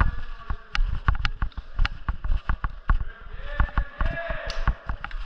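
Airsoft gunfire and BB impacts: sharp clicks and knocks in a quick, irregular run, several a second, with low thuds between them. A short voice-like call rises and falls about three and a half seconds in.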